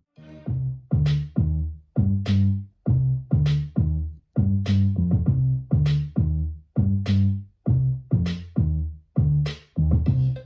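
Electronic music with a steady drum-machine beat and heavy bass, played through a small DIY speaker box with a Dayton Audio 3-inch full-range driver for a bass test. It starts just after a short silence.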